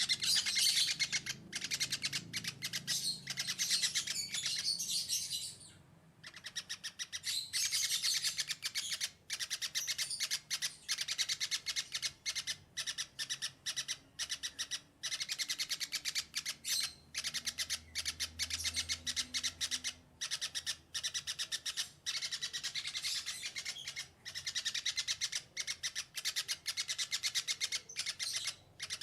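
A flock of small birds chirping and chattering in a dense, rapid stream of high calls, broken by a short pause about six seconds in.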